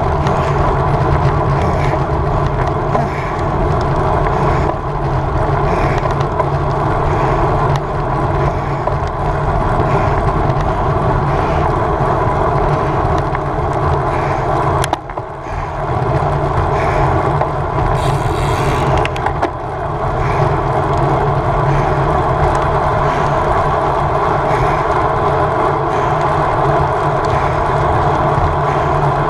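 Road bicycle riding at race speed: steady wind rushing over the microphone mixed with the hum of tyres on the road, briefly dipping about halfway through.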